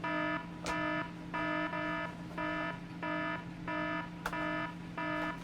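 Smoke detector alarm going off: a repeating electronic beep in a steady on-off pattern over a constant low hum, with two brief clicks, one under a second in and one about four seconds in.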